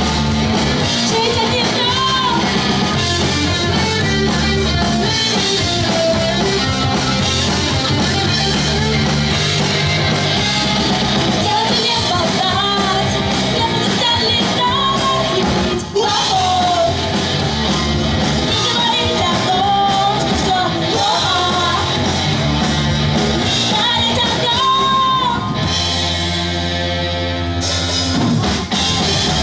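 Live pop-punk band playing loudly, with guitars, bass and drums under sung and shouted vocals. Near the end the music thins for a couple of seconds to a held, steady chord before the full band comes back in.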